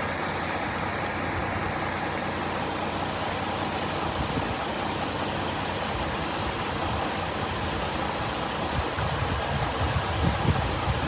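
Water gushing from a sheared-off fire hydrant, a steady rushing hiss. Wind buffets the microphone in low thumps during the last couple of seconds.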